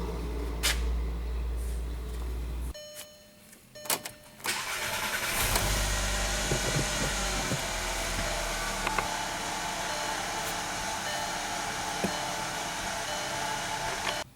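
The 2.5-litre five-cylinder engine of a 2007 VW Jetta runs, stops about three seconds in, then cranks and starts again about four and a half seconds in and settles into an idle. This is the engine that logs a cylinder-1 misfire (P0301). A short electronic tone and some clicks sound in the quiet gap between.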